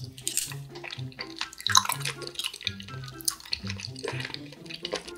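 Close-miked wet chewing of raw octopus: many short, sticky, squelching clicks in the mouth. Soft background music with a low repeating bass line sits underneath.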